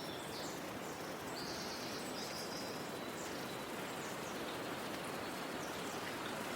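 Steady outdoor background noise with small bird calls over it. The high chirps are busiest in the first two or three seconds and grow sparser after.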